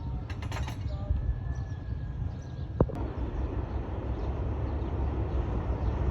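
Train running on rails: a steady low rumble with creaks and scattered clicks, and one sharp clack about three seconds in.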